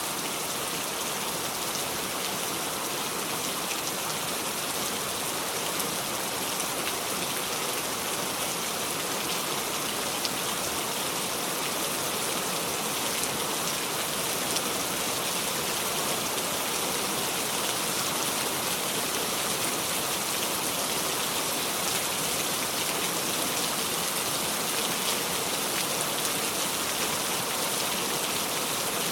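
Steady heavy rain falling, a dense even hiss of drops with no thunder.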